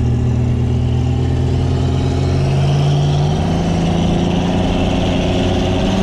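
Turbocharged Toyota 2JZ inline-six engine of a high-horsepower Supra heard from inside its cabin, running at low speed under light throttle, its steady drone rising slowly in pitch as the car gathers speed.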